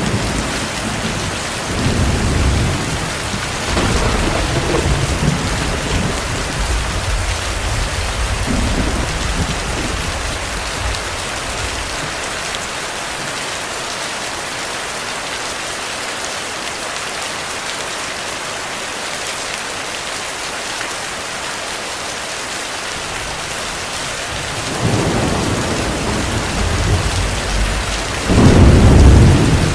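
Heavy rain falling steadily with thunder rumbling. Rolling rumbles come in the first dozen seconds, then a lull of rain alone, then thunder builds again near the end, loudest about 28 seconds in.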